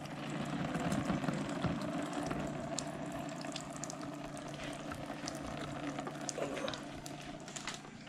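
Liquid from grated yuca (cassava) being wrung out of a woven press tube, streaming and splashing into a plastic bucket below, with scattered small clicks. It is loudest about a second in and tapers off near the end.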